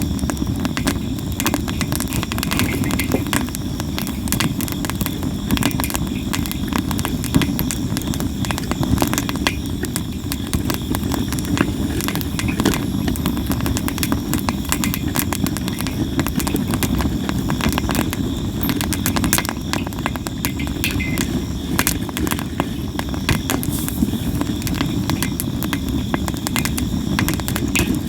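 Campfire of sawara cypress wood crackling and popping constantly, many sharp snaps over a steady low rumble.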